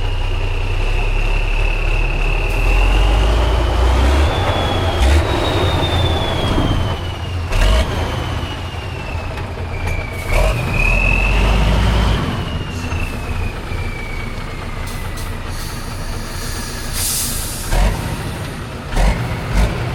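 Heavy off-road trial truck's diesel engine working under load, with a high whistle that slowly rises and falls in pitch. Several sharp knocks are heard, and there is a short hiss about three seconds before the end.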